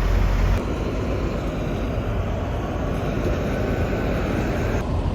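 Steady vehicle road noise: a low rumble with an even hiss of tyres and wind, changing abruptly about half a second in and again near the end.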